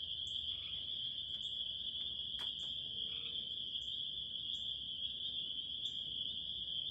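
Evening chorus of crickets: a steady high trill, with a shorter, higher chirp repeating about once a second.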